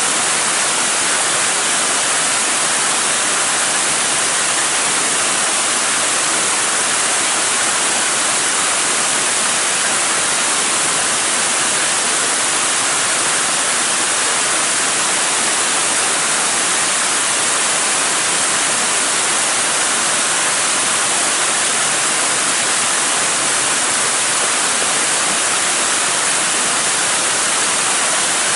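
Shiraito Falls rushing steadily, a loud, unbroken wash of falling water.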